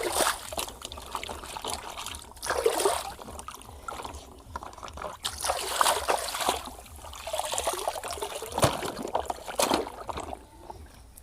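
Water trickling and splashing over a muddy toy as it is rinsed clean, coming in uneven surges.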